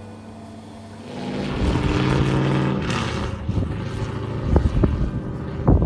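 LS1 V8 engine with a Y-pipe into a 3-inch exhaust, running low at first and then revving up and pulling under load from about a second in. A few short, sharp thumps come near the end.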